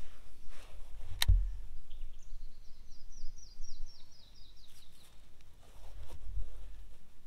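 A bird singing a quick run of short, high, downward-slurred notes, about five a second for a couple of seconds. A single sharp click comes about a second in, before the song starts.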